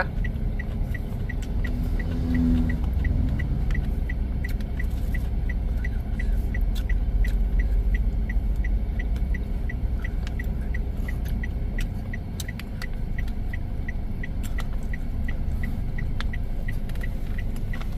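Steady low rumble, like a motor vehicle engine running close by, easing off about two-thirds of the way through, with an even high-pitched ticking about twice a second and scattered small clicks.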